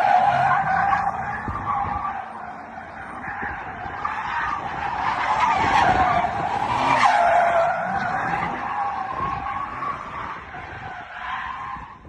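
Car tyres squealing continuously against the road, the squeal wavering up and down in pitch for about twelve seconds before it fades near the end, as in a long slide or drift.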